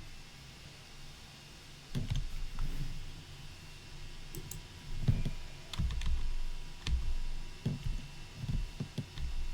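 Irregular clicking with soft low thumps, as of a computer mouse and keys being clicked while presets are selected in a control interface.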